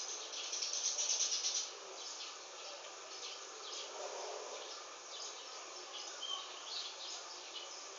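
Small birds chirping outdoors in scattered short calls, with a louder run of quick, rapid chirps from about half a second in to just under two seconds.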